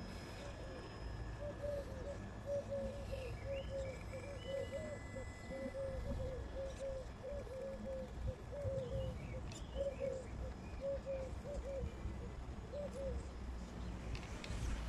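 A bird calls in a long run of short, low hooting notes, with fainter chirps of small birds higher up and a low rumble underneath.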